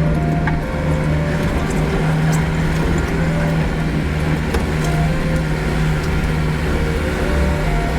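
Kubota L6060 tractor's diesel engine running steadily.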